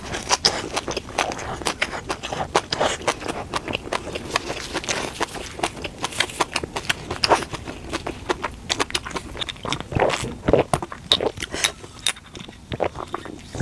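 Close-miked eating: a dense run of quick, crisp biting and chewing clicks with wet mouth sounds, a little louder about ten seconds in.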